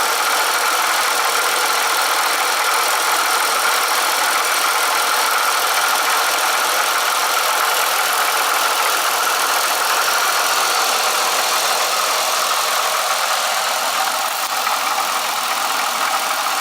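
Bonneville running at idle with a steady rattle that an oil change has not cured; the owner suspects the coupler next.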